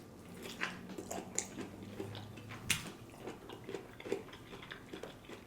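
Close-up mouth sounds of someone chewing a stuffed bell pepper: soft, irregular wet clicks and smacks, with one sharper click a little before the middle.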